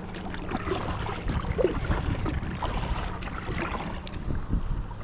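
Wind buffeting the microphone on a kayak out on choppy water, with short splashes and water lapping at the hull.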